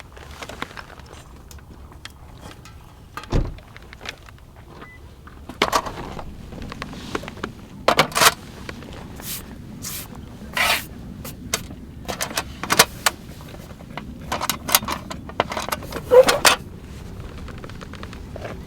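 Camping gear being handled: an irregular series of clinks, knocks and scrapes, with one low thump a few seconds in and busier handling after that.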